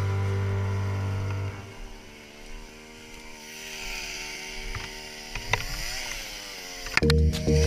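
A quad bike's engine running at a quiet idle, revving up briefly and settling back a little past halfway, then running loud again near the end. Background music fades out about a second and a half in.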